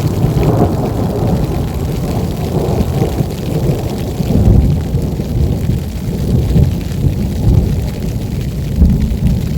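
Strong wind buffeting the microphone during a snowstorm: a loud, low, uneven noise that swells in gusts, strongest about halfway through and again near the end.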